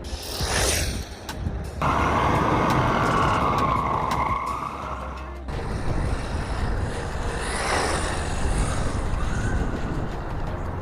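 Redcat Tornado EPX Pro 1/10 RC car's brushless motor and drivetrain whining at high speed on a 3S battery. It passes by twice, near the start and again near the end. In between is a louder stretch of steady whine that dips and then rises in pitch, and it cuts off suddenly about five seconds in.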